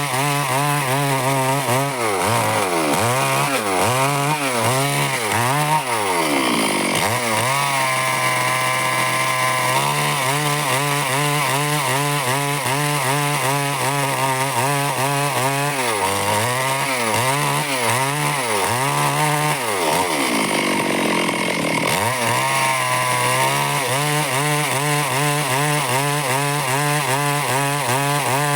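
Stihl two-stroke chainsaw cutting wood, its engine pitch repeatedly dipping and recovering as the chain loads up in the cut. Twice it holds a steady pitch for a couple of seconds.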